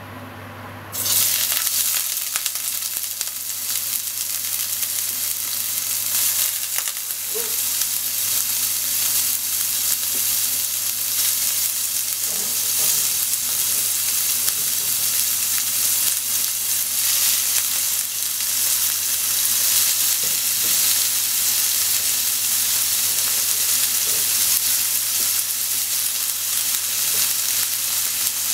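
Raw squid strips frying in hot oil in a non-stick frying pan: a sizzle that starts suddenly about a second in as the squid goes into the pan and then carries on steadily as more pieces are added.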